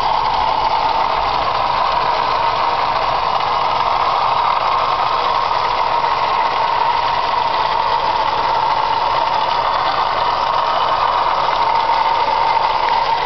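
Mercury Sable engine running with a steady high-pitched whine held at one pitch over the engine noise: the funny noise the owner wants checked.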